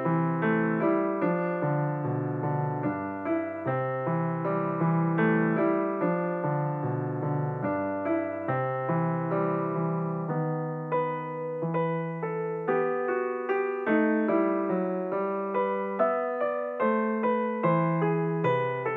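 Background piano music: a steady melody of struck notes, about two a second.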